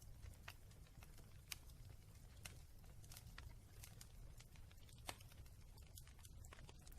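Wood fire burning in a fireplace, crackling faintly with irregular sharp pops, about one or two a second, over a low steady rumble.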